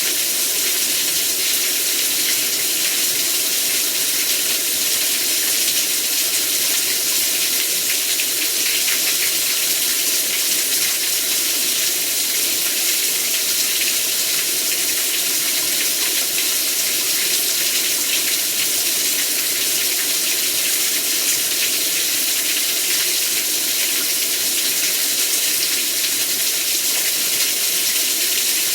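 Heavy rain pouring down steadily: a dense, even hiss of countless drops.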